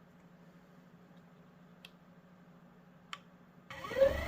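Theragun massage gun being pried open with a screwdriver: a couple of faint clicks, then near the end a sudden loud rising whine over a rough rattle that sounds "not good".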